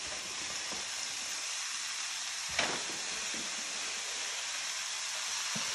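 Mushrooms and garlic sizzling in olive oil in a hot skillet, a steady hiss, with one light knock about two and a half seconds in.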